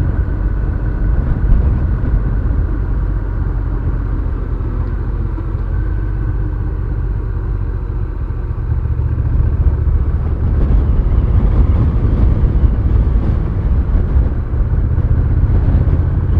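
Honda Rebel 1100's parallel-twin engine running steadily as the motorcycle rides along.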